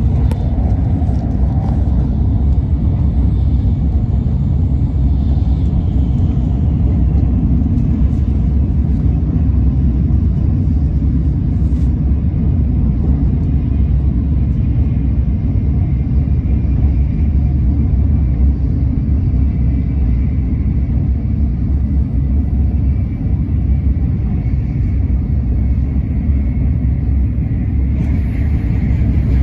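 Steady low rumble of an N700A Shinkansen running at high speed, heard inside the passenger cabin. A faint high hiss joins in over the last several seconds.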